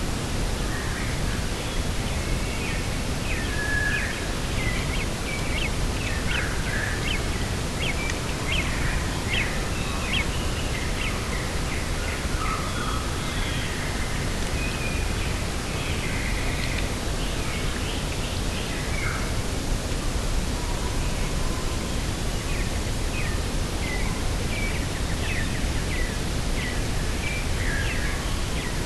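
Birds chirping in many short, high calls over a steady rushing wind; the calls thin out for a few seconds past the middle, then pick up again.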